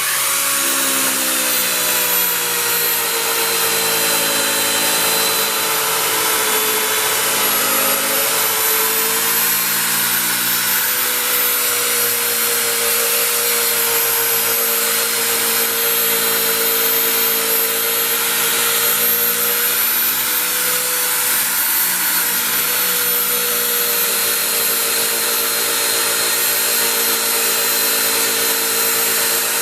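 Handheld electric polisher with a buffing pad running steadily on an aluminum truck wheel. Its pitch dips slightly now and then as it is pressed into the work.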